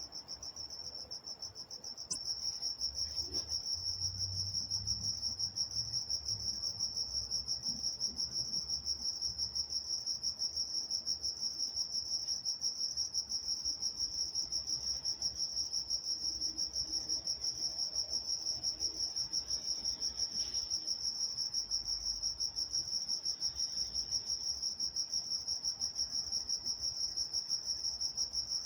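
Crickets chirping at night in a steady, high-pitched, rapidly pulsing chorus, which gets louder about two seconds in.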